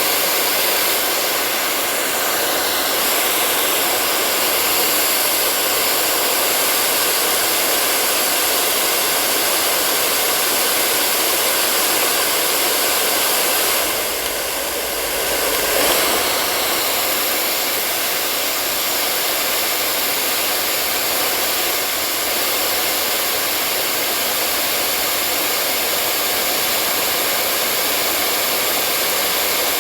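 Electric hair dryer blowing steadily: an even rushing hiss of air with a faint motor whine, briefly dipping and swelling about halfway through.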